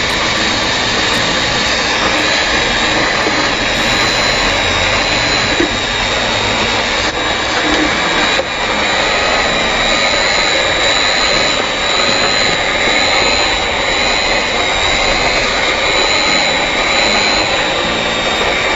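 LC3000A hot air welding machine running as it welds along a banner seam: a steady rushing blow from its heat gun, with a high whine that wavers slightly.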